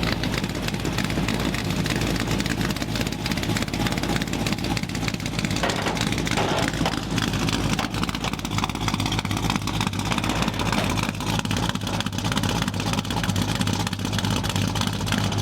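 Cammed small-block Chevy V8 running through 2.5-inch dual Cherry Bomb glass-pack mufflers with turn-down tips, giving a rowdy, old-school exhaust note. The sound holds at a steady level throughout, with a slight change in its note about six seconds in.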